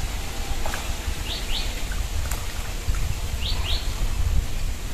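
A bird calling over and over, each call two quick high notes, repeating about every two seconds, over a steady low rumble.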